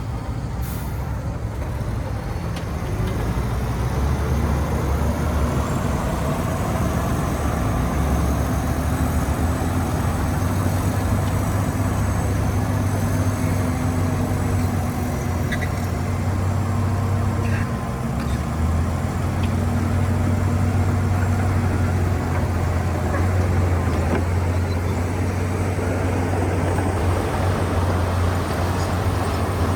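Heavy diesel earthmoving machinery running steadily with a deep engine drone, working a little harder from about three seconds in and easing off briefly about midway.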